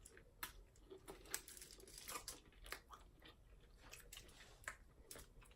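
Close-up eating sounds: a person chewing, with scattered small crunches and wet clicks.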